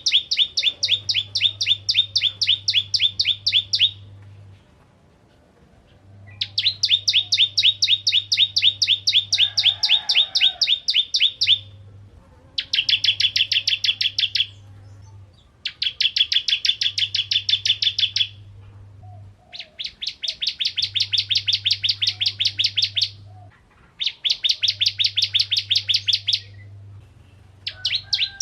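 Ciblek kristal (bar-winged prinia) singing in bursts of a fast, rattling trill of sharp repeated notes, roughly ten a second. The bursts last two to five seconds each, with short pauses between them.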